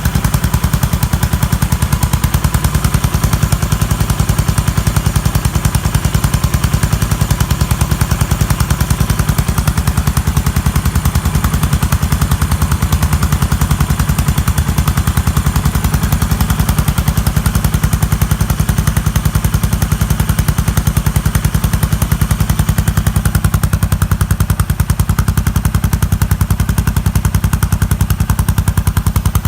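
Yamaha SR400's air-cooled single-cylinder four-stroke engine running steadily, a rapid, even train of loud exhaust pulses.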